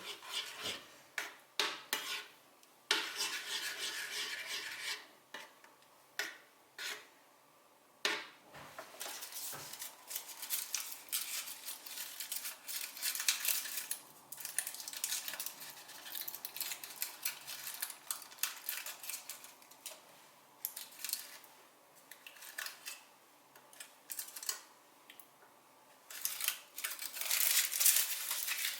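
Kitchen utensils and dishes clinking and knocking, with longer stretches of scraping and stirring between the sharp clicks.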